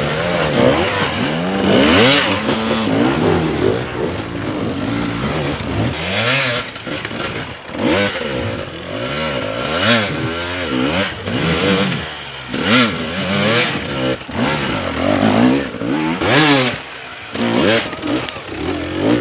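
Dirt bike engines revving hard on an enduro climb, the throttle opened and closed again and again so the pitch rises and falls repeatedly, with several short loud bursts of noise along the way.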